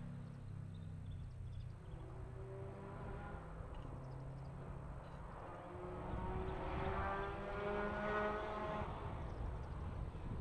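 A rally car's engine heard at a distance on a closed tarmac stage, its note changing in steps as it works through the gears, growing louder in the second half as the car approaches.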